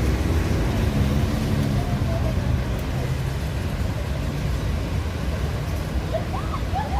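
Road traffic at a busy city intersection: a steady low engine rumble, with brief voices near the end.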